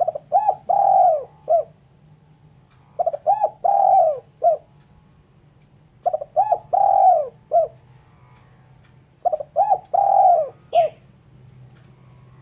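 Spotted dove cooing, four phrases about three seconds apart. Each phrase is two short notes, a longer drawn-out note and a short closing note. A faint steady low hum runs underneath.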